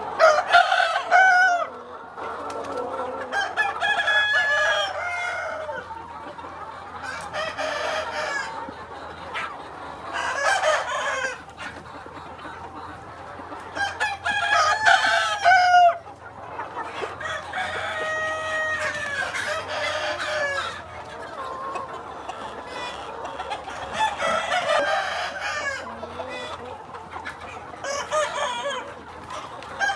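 A flock of free-range chickens clucking and calling, several birds at once, in bursts every few seconds.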